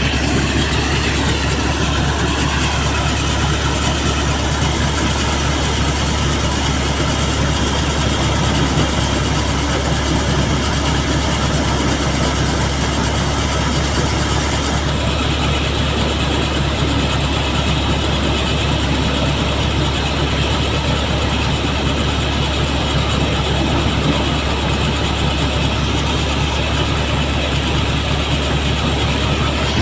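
Tractor diesel engine running a threshing machine, a loud steady drone with a strong low hum. The higher part of the sound changes slightly about halfway through.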